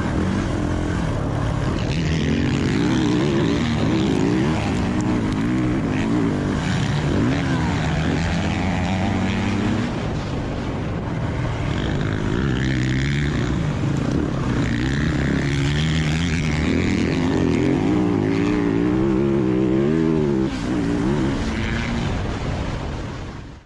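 Yamaha YZ450F four-stroke single-cylinder dirt bike engine being ridden hard, its pitch rising and falling over and over as the throttle opens and closes and it shifts through gears. The sound fades out at the very end.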